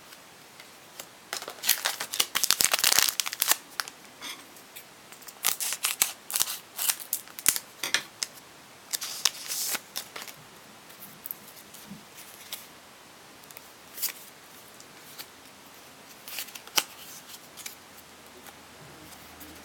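Foil wrapper of a Pokémon trading card booster pack being opened, then the cards slid out and handled: short, irregular bursts of crinkling and rustling with a few clicks, separated by quiet gaps.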